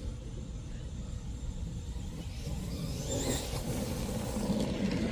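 2WD brushless RC truck (4000kv motor on 3S) driving, over a steady low rumble. From about three seconds in it gets louder, with a brief high motor whine and tyre and ground noise.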